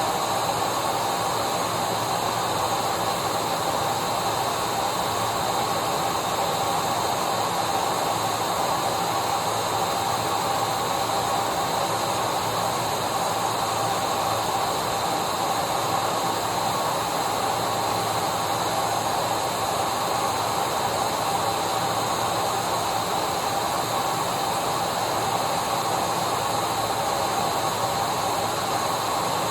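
Vacuum cleaner motor running steadily: a constant airy rush with a steady high whine, unchanging throughout.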